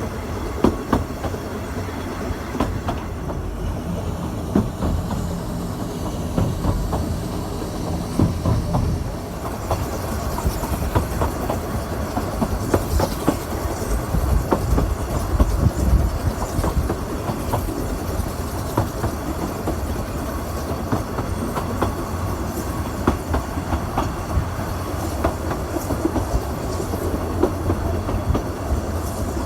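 Narrow-gauge railway train running along the track, a steady rumble with the wheels clicking and rattling over the rails.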